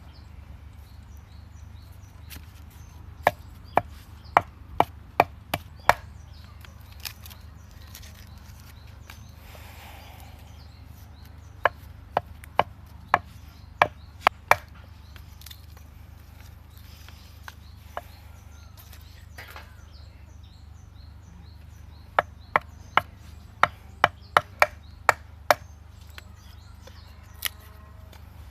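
Sharp dry wooden cracks, a few a second, in three short runs: kindling being broken up to feed the fire.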